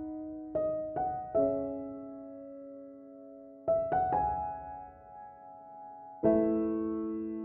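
Slow, gentle piano background music: a few notes and chords struck every second or two, each left to ring and fade away.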